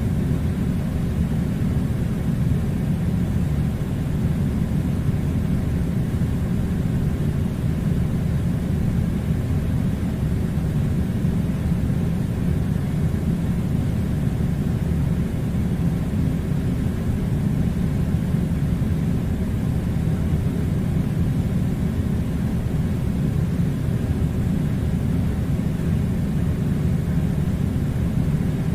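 Air conditioner running with a steady, low rumbling hum and a faint hiss of blown air, unchanging throughout.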